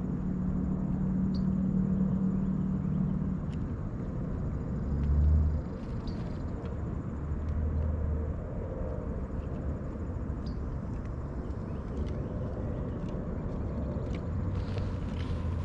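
Motorcycle engine running, a low rumble with a brief louder surge about five seconds in.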